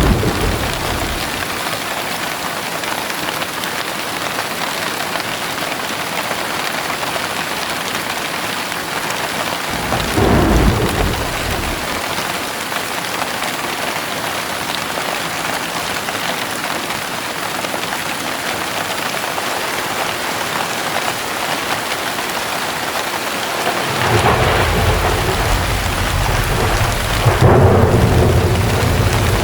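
Steady rain with rolls of thunder. There is a short rumble at the very start and another about ten seconds in, then a longer, louder rumble builds over the last few seconds.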